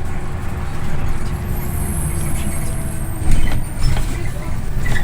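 Scania OmniLink I city bus heard from inside the cabin while under way: a steady low engine and road rumble with a faint drone that slowly falls in pitch, and a few rattles and knocks, the loudest about three seconds in.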